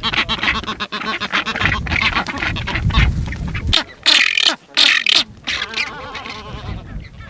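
Dense chorus of many birds calling at once, overlapping wavering cries with a few louder calls a little past the middle.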